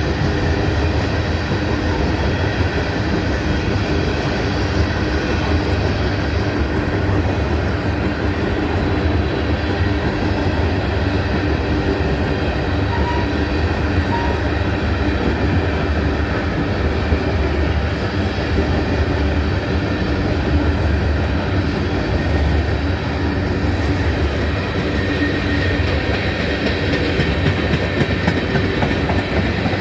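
A freight train of tank cars rolling past: a steady rumble and clatter of steel wheels on the rails.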